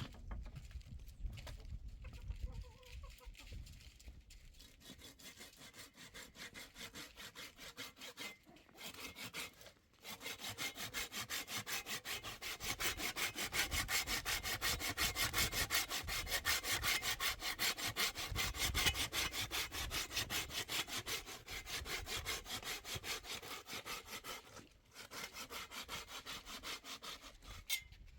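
Hand saw cutting through wood in quick, even back-and-forth strokes. It starts light and uneven, settles into a steady, louder rhythm, and stops briefly near the end before starting again more softly.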